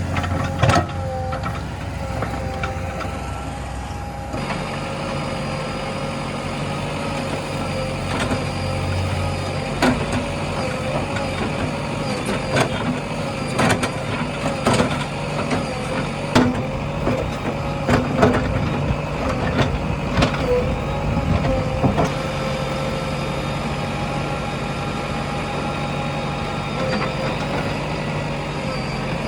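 JCB 3DX backhoe loader's diesel engine running steadily under work, with a steady whine over it. Sharp knocks and clanks come at intervals through the middle stretch.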